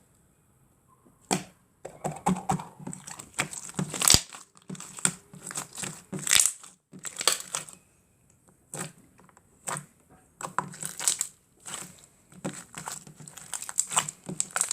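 Slime being pressed and stretched by hand, giving irregular crackling and popping clicks that start about a second in, with short pauses.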